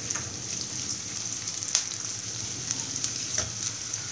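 Chopped garlic and onion sizzling steadily in hot olive oil in a pan, with a spatula stirring through them and a few sharp ticks.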